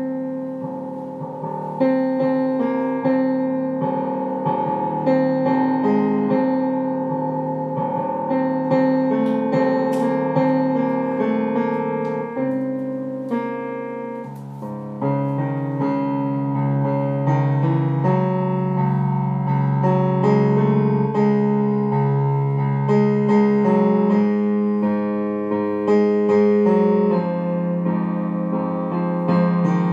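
Piano music with sustained notes and chords.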